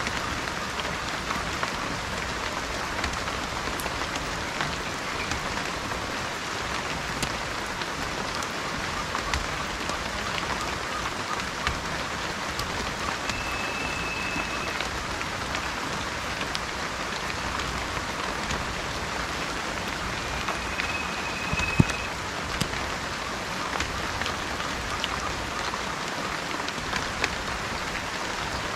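Steady rain falling, with individual drops tapping throughout and one louder tap about 22 seconds in. A short, high, steady whistle sounds twice in the middle and again near the end.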